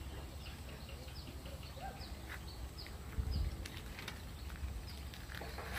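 Small birds chirping: a run of short, high, falling chirps about two a second, over a steady low rumble.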